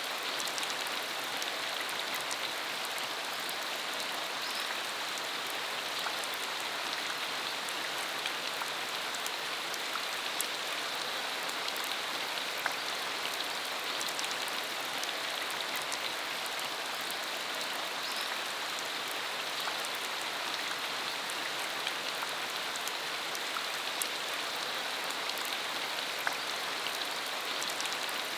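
Steady rain falling on a dirt road: an even hiss with many small drop ticks.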